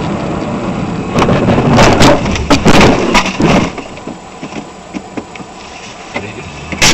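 Car collision: steady vehicle rumble, then about a second in a run of loud crunching impacts lasting about two and a half seconds, with one more sharp knock near the end.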